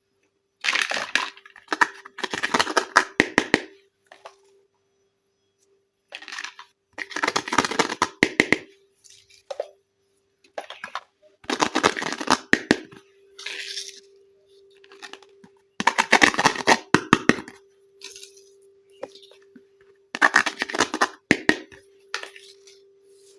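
Plastic packaging and small plastic toy parts crackling and tearing as they are unwrapped and handled, in five bursts of dense crackle with quiet gaps between. A faint steady hum runs underneath through the second half.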